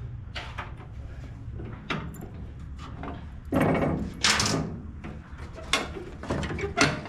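Workshop handling noises: several light knocks and clicks, with a louder scrape of something being slid or shifted about three and a half seconds in.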